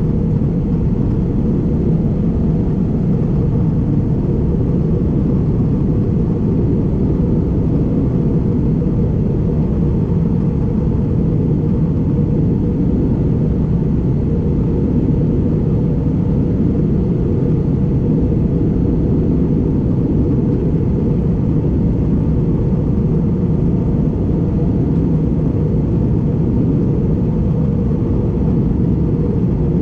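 Steady cabin noise of an Airbus A320neo in flight, heard from a window seat: an even, unbroken low rumble of airflow and its Pratt & Whitney geared turbofan engines.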